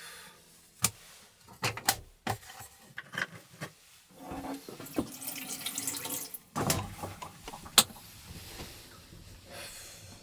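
Water running and splashing, with several sharp knocks in between, the loudest near the start and one near the end.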